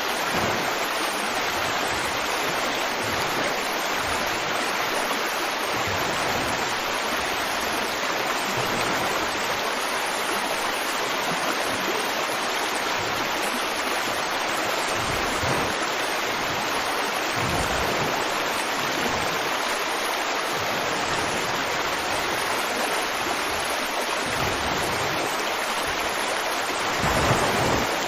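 River water flowing and splashing over rocks, a steady rushing babble with occasional low surges and one slightly louder swell near the end.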